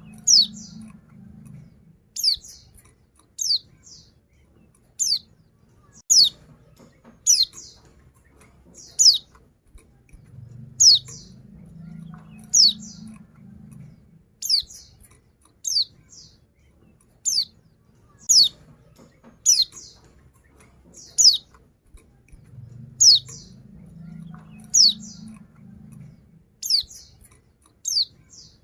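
Female white-eye (pleci) giving short, high call notes that slide downward, repeated about once a second: a female calling to a male. A faint low rumble comes and goes beneath the calls.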